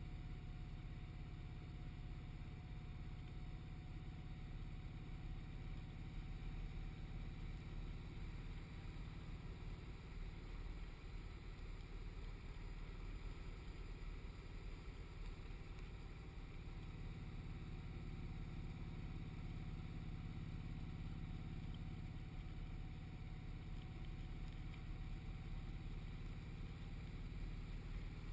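Motorcycle engine running at a steady cruise with wind rumble on the microphone, a low, even drone that holds without revving up or down.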